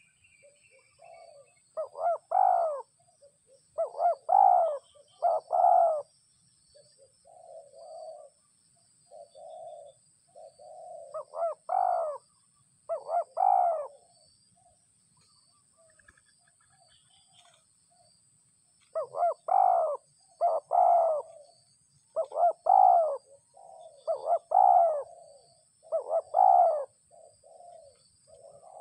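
Spotted doves (balam) cooing in repeated runs of loud coos, with softer, lower coos between the runs and pauses of a few seconds.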